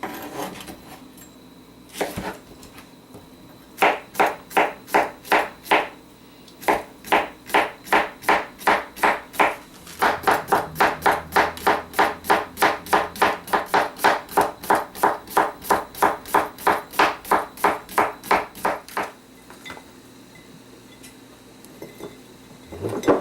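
Kitchen knife chopping on a cutting board: quick, even strokes about three a second, in three runs with short breaks, the longest lasting about nine seconds.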